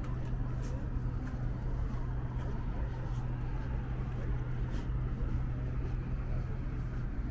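City street ambience: a steady low hum, like an idling engine or nearby machinery, over a constant wash of traffic noise, with a few faint light ticks.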